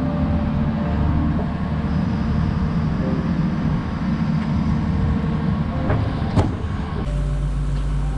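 An engine running with a dense, steady rumble and a few sharp clicks near the end. About seven seconds in it cuts abruptly to a steady hum with held tones.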